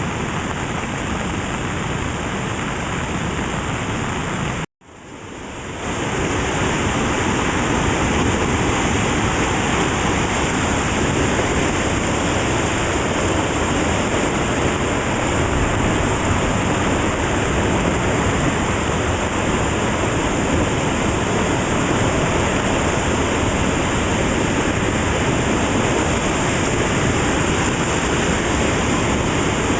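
Steady rushing of a storm-swollen creek running high and fast, mixed with falling rain. The sound drops out for a moment about five seconds in, then fades back up.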